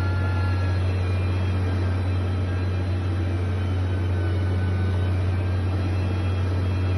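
Steady low drone of heavy construction machinery's diesel engine running, with no change in pitch or level.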